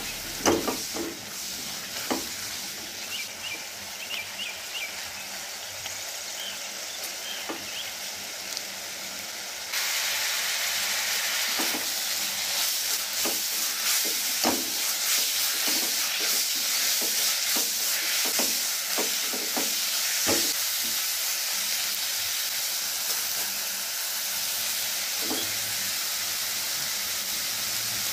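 Grated bottle gourd and vermicelli with jaggery sizzling in a non-stick frying pan, the moisture cooking off as the jaggery melts. Short knocks and scrapes of a spatula come through the sizzle now and then. The sizzle becomes suddenly louder about ten seconds in.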